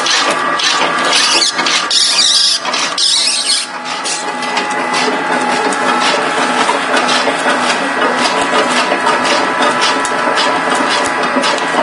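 Nantsune NYL-160S multi-slicer running as it slices salmon. There is a steady mechanical whine with rapid, regular ticking, and a louder rushing noise between about one and four seconds in.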